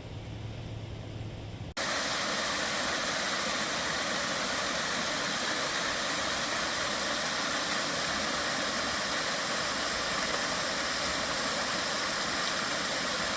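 A low hum, then about two seconds in a loud, steady rushing hiss cuts in abruptly and holds without change.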